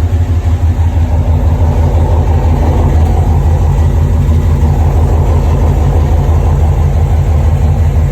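GM LT1 6.2-litre V8 idling steadily, with a deep, even pulse.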